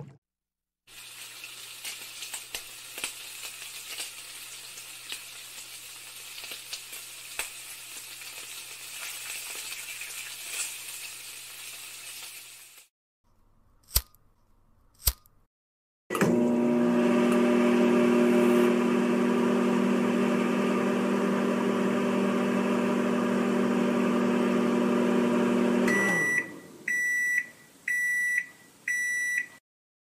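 Water boiling: a hissing, crackling bubble for about twelve seconds. Then a lighter is flicked twice, two sharp clicks. Then a microwave oven runs with a steady hum and finishes with four short beeps.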